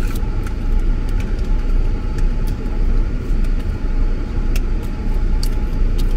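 Steady low rumble of a car engine idling, heard from inside the closed cabin, with a few small clicks scattered through it.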